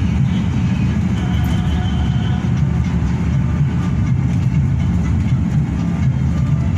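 Steady low drone of a Hino RK8 bus's diesel engine and road noise inside the cabin while the bus is running.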